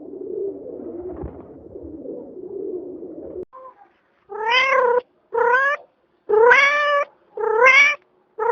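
A kitten meowing repeatedly: four rising meows about a second apart, with a fifth starting at the end. Before them there is a low, rough murmur for the first three seconds or so.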